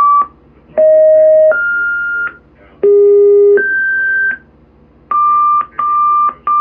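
Fire dispatch radio two-tone paging tones: two pairs of a lower steady tone followed by a higher one, each about three-quarters of a second long, then three short beeps at a single pitch. These tones alert the stations that are about to be dispatched.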